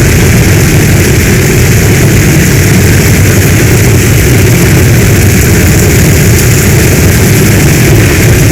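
Steady heavy rain in a storm, with a deep, continuous low rumble under the hiss of the downpour.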